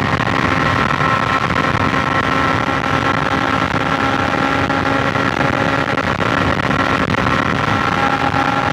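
BMW S1000XR's inline-four engine running steadily at highway speed, its note easing slightly lower in pitch, over a constant rush of wind and road noise.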